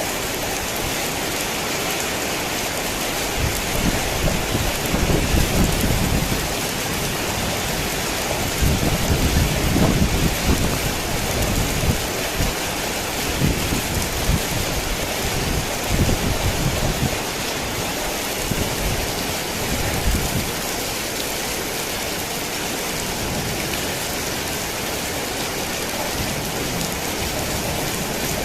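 Heavy rain falling in a steady hiss, with rolling thunder rumbling low in several swells from a few seconds in until about two-thirds of the way through.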